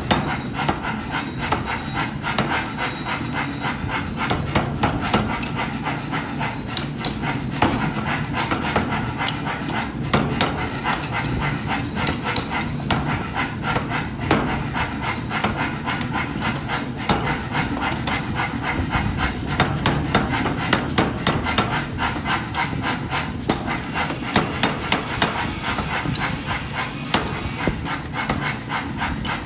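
Many quick, irregular hammer strikes on metal over a continuous scraping, rasping noise of metalwork.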